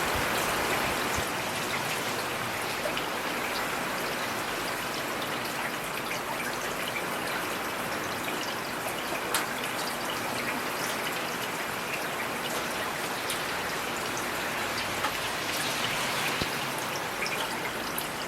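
Heavy rain falling steadily, a dense hiss with scattered sharp drop ticks.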